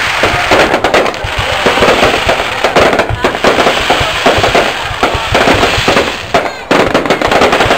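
Fireworks display: a dense, continuous barrage of overlapping bangs and crackling from aerial shells being launched and bursting, with a brief lull about six seconds in.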